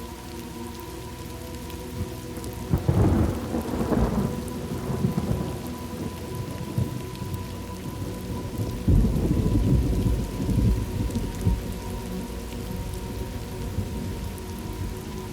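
Steady rain with two rolls of thunder, the first about three seconds in and a louder one starting suddenly about nine seconds in and rumbling on for a few seconds.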